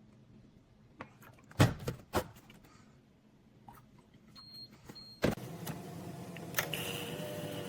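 Ninja DualBrew coffee maker being handled with several sharp knocks and clicks, then two short electronic beeps. About five seconds in, a small motor or pump starts and keeps running with a steady hum and a higher whine.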